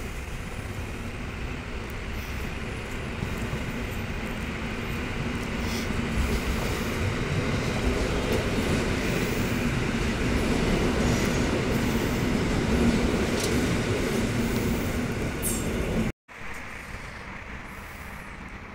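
Train running on the rails, its noise growing steadily louder over about a dozen seconds. It breaks off suddenly near the end, and a quieter background follows.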